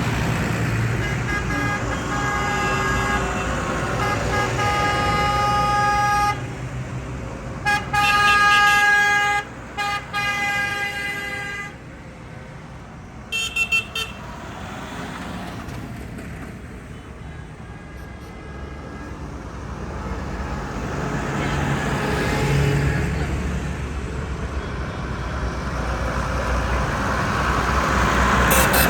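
Tractors passing in a procession with engines running and horns tooting. There is a held horn note at first, then three loud blasts and a short toot. After that the low engine rumble grows louder again as more tractors come by.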